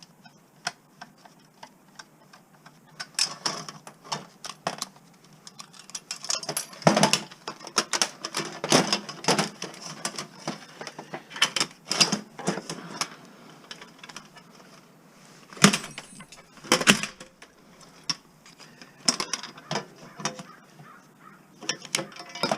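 Small pieces of scrap metal clinking and clattering as they are handled and sorted, in irregular bursts of sharp clicks with a few louder knocks.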